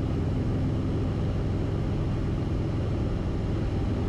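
Steady drone of a Cessna 172RG's piston engine and propeller heard inside the cabin, running at reduced power on final approach.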